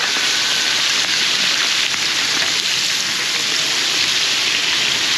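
Fish frying in hot oil: a steady, loud sizzle.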